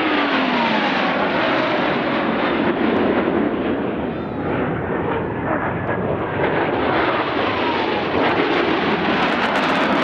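Blue Angels F/A-18 Hornet jets flying low in a steady, loud roar. A whine falls in pitch as one jet passes in the first second, another falling whine follows later, and the roar builds again near the end.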